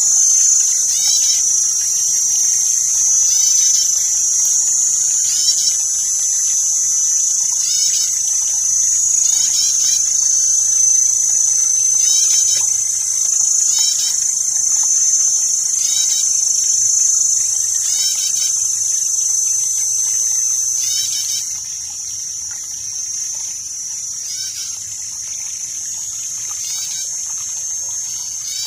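A steady, high-pitched chorus of crickets or other insects, with a short repeated chirping call about every two seconds underneath. The chorus drops in loudness about three quarters of the way through.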